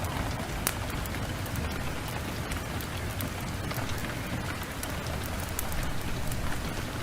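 Heavy rain falling steadily, a dense even hiss with a low rumble underneath and many scattered sharp clicks and pops.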